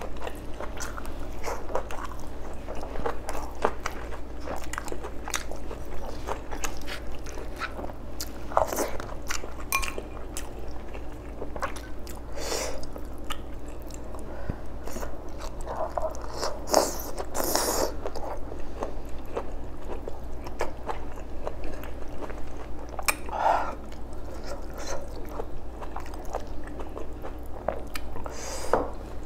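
Close-miked chewing of rice and boiled beef oxtail, with many wet little mouth clicks and a handful of louder smacks spread through.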